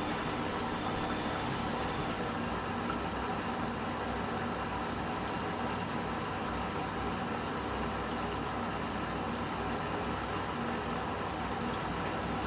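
Washing machine running steadily, with a constant motor hum and vibration.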